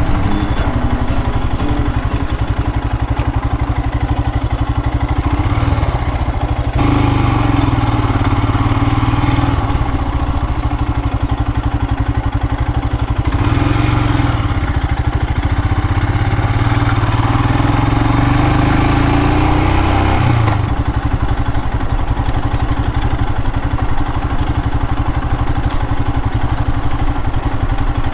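Royal Enfield Himalayan's single-cylinder engine running on the move. For a long stretch in the middle it gets louder and its pitch rises and falls, then it settles back to a steadier, quieter note.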